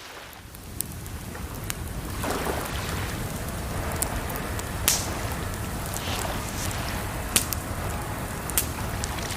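Campfire crackling, with sharp pops every second or so over a steady rush of flowing water. It fades in over the first couple of seconds.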